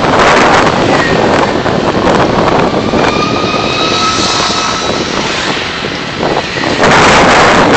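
Car driving in city traffic: steady road and wind noise, with a faint whine rising a little in pitch through the middle and a louder rush of noise near the end.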